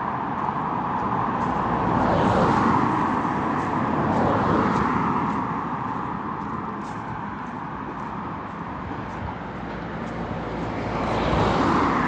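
Cars passing on a road close by, one after another, each swelling up and fading away as it goes past; the loudest pass about two seconds in, another about four seconds in, and one near the end.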